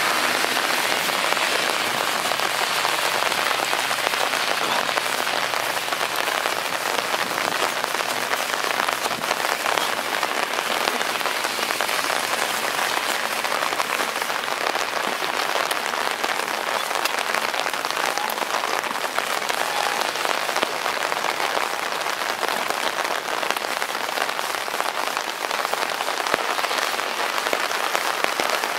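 Heavy rain hissing steadily on a wet road and grass. A low vehicle engine hum sits underneath and fades out about nine seconds in.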